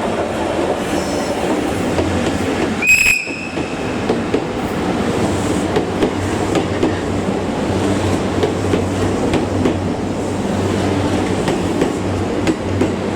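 A train of new E235-1000 series cars being hauled through a station on a delivery run: a steady loud rumble of wheels and rail joints with clickety-clack and rattling. About three seconds in comes one brief high-pitched squeal or whistle.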